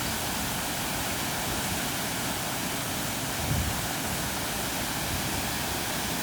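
Steady rushing of rain-swollen water, with a brief low bump a little past halfway.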